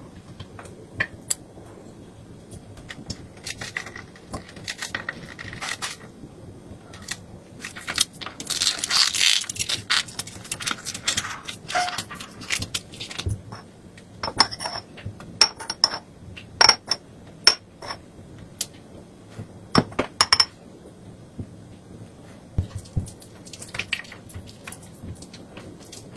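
Dishes and utensils handled during food preparation: a series of sharp clinks and taps, several with a short ringing, and a burst of scraping or rustling about 8 seconds in.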